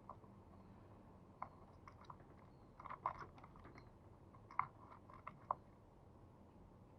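Faint, scattered sharp clicks and ticks, a dozen or so in small clusters, with a cluster near the middle and a few more towards the end, and no cooing.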